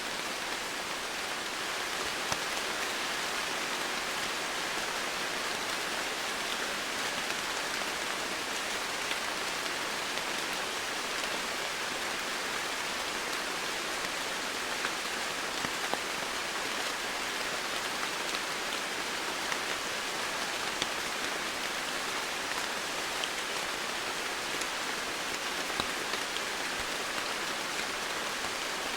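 Steady rain falling, an even hiss with scattered drips and drop ticks.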